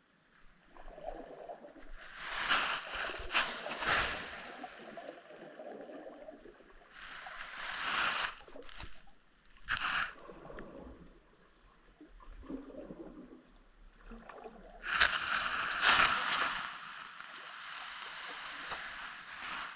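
Water noise picked up by a submerged underwater camera: irregular swishing and gurgling surges a few seconds apart, the longest and loudest about fifteen seconds in.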